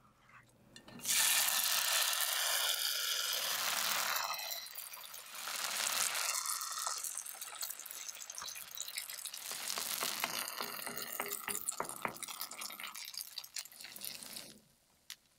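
Grated-potato pancake batter sizzling and crackling in hot oil in a frying pan. It starts suddenly about a second in and stops abruptly shortly before the end.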